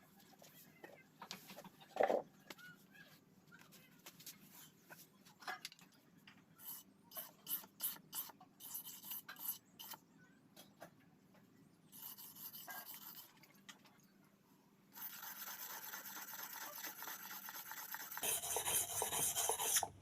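Rasping and scraping strokes, most likely tool work on metal. Scattered scrapes with a knock about two seconds in give way to a quick run of short strokes. A steady, harsher rasping then starts about fifteen seconds in and gets louder near the end.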